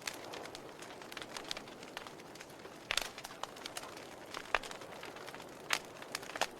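Wood campfire crackling: a soft steady hiss with irregular sharp pops and snaps, the loudest about three seconds in and again near four and a half and six seconds.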